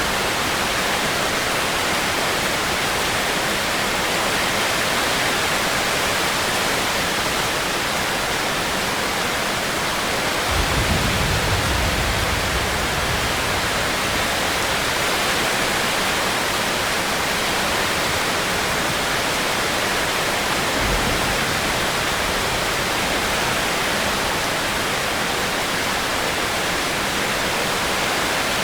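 Steady heavy rain, an even hiss. A low rumble comes in about ten seconds in and lasts about three seconds, and a shorter one comes around twenty-one seconds in.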